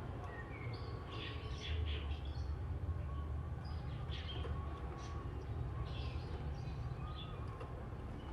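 Oriental magpie-robin (kacer) singing, a loose run of short chirps and whistles, over a steady low rumble.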